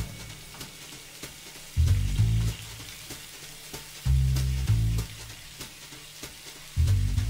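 Ginger and garlic paste sizzling as it fries in hot oil in a wok, stirred with a wooden spatula. Three short runs of deep bass notes from background music cut in over it, about two, four and seven seconds in, louder than the frying.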